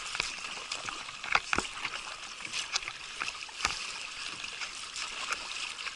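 Water trickling and lapping around a moving kayak, with a few short splashes scattered through.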